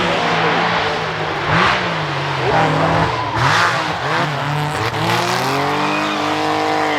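Rally car engine revving hard, its pitch rising and dropping several times through gear changes, then climbing in one long rise near the end.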